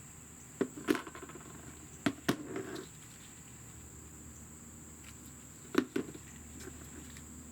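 Small clicks and knocks of brake caliper parts and a grease tube being handled during caliper-pin greasing, in three short clusters, about a second in, about two seconds in and near six seconds. A steady faint high-pitched whine, cricket-like, runs underneath.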